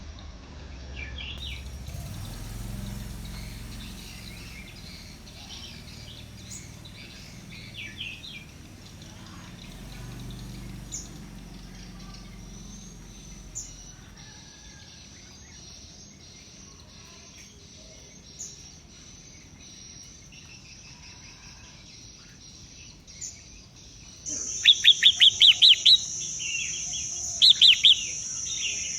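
Birds chirping, with scattered short calls at first; about three quarters of the way through, a steady high-pitched drone starts suddenly and loud, rapid runs of chirps come twice.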